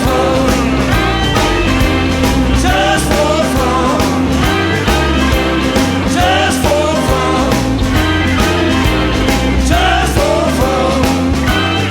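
Blues-rock band playing a passage without lyrics: steady bass and drums under a lead line of bending notes that repeats in short phrases.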